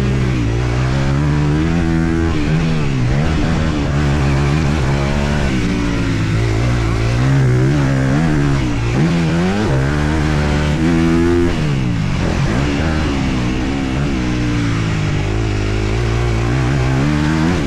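Honda CRF250R single-cylinder four-stroke dirt bike engine being ridden hard, its pitch climbing and dropping again and again as the throttle is opened and shut.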